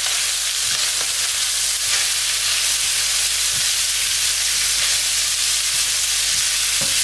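Diced chicken, bell peppers, onion and garlic sizzling steadily in hot butter and olive oil in a ceramic-coated pan while being stirred with a silicone spatula, with a few soft knocks of the spatula against the pan.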